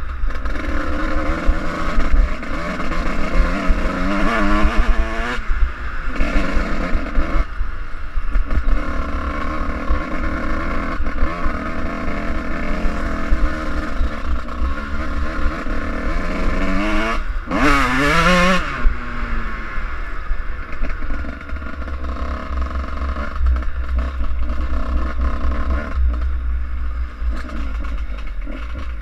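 Suzuki RM125 two-stroke dirt bike engine running on the track, revving up in pitch twice, the second time the loudest, about two thirds of the way in. Wind rumbles on the microphone throughout.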